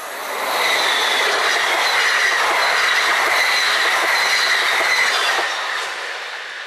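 NS double-deck InterCity train passing through at speed, a loud rushing run with a steady high squeal and wheels clacking over the rail joints about twice a second, fading away near the end.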